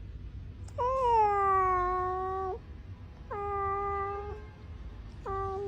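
Domestic cat meowing: three long, drawn-out meows, each dropping in pitch at the start and then held steady, the last beginning near the end.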